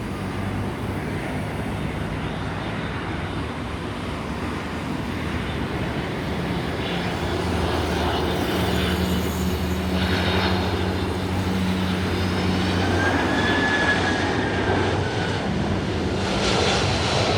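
Jet engines of a Boeing 767-300ERF freighter on final approach: a steady noise with a low hum underneath, growing slowly louder as the aircraft comes nearer.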